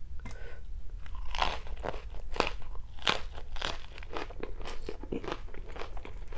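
A person biting into and chewing a crisp lettuce-leaf wrap of stir-fried rice vermicelli, a run of quick, irregular crunches starting about a second in.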